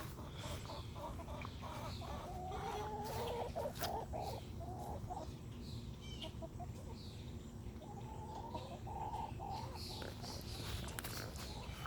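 Hens clucking, with two longer drawn-out calls, one about two seconds in and another about eight seconds in, among scattered light clicks.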